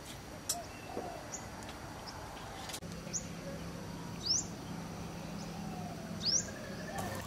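Wild birds calling: short, high chirps that sweep downward, about six of them, the two loudest near the middle and near the end, over faint steady background noise. A faint low hum runs for a few seconds in the middle.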